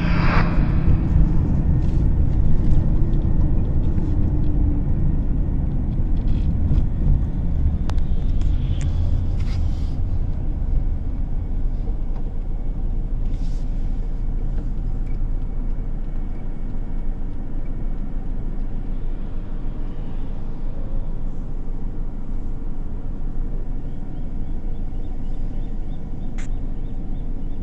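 A car being driven on the road: a steady low rumble of engine and tyre noise, a little louder and with a low engine hum in the first half, then evening out.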